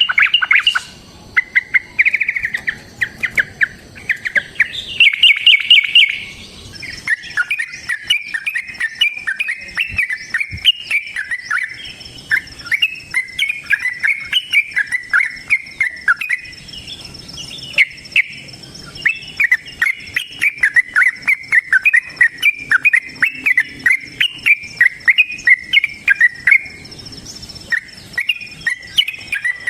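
Yellow-vented bulbul (trucukan) singing in long, fast rolling runs of chattering notes, with a few short quick bursts first. A thin steady high tone, like an insect's, runs underneath for most of the stretch.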